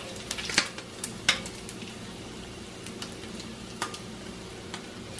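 Bacon and hot dogs sizzling in a frying pan on the stove: a steady hiss with a few sharp clicks.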